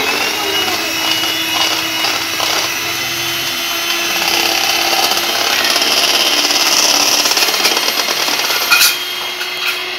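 Electric mixer running steadily, beating egg whites with melted sugar toward a foam, with a brief knock near the end.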